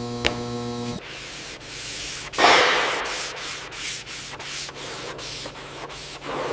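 Rhythmic abrasive sanding strokes, about three a second, with a louder, longer rubbing stroke about two and a half seconds in.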